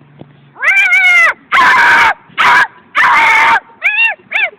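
A voice making loud, high-pitched animal-like noises. One long wavering squeal is followed by three harsher screeches, then three short yelps that rise and fall near the end.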